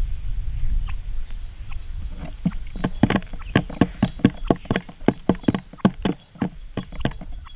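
A rapid, irregular run of sharp knocks or taps, about four a second, starting a couple of seconds in, after a low rumble.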